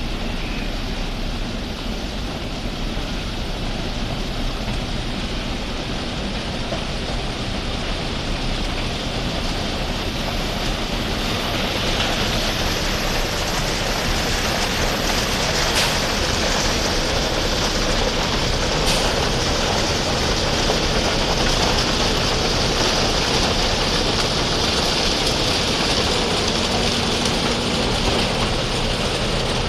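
Railway construction machine running on the track: a steady mechanical din with a low hum that grows louder over the first half, with a couple of sharp clicks in the middle.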